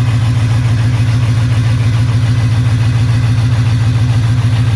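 Lifted pickup truck engine idling steadily with an even, low rumble, running cold shortly after a cold start in freezing weather.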